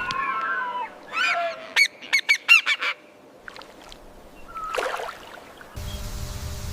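Bird calling: a wavering call at the start, then a quick run of about six short calls, and one more call a couple of seconds later. Near the end the background turns to a steady low rumble and hiss.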